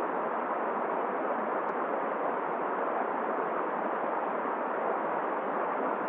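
Steady rushing noise of wind and a flowing river, even throughout with no gusts or breaks.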